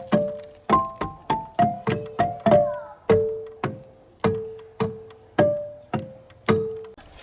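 A tuned percussion instrument played one note at a time, picking out a simple tune: each struck note rings briefly and fades. The notes come quickly at first, then slow to a few repeated lower notes near the end.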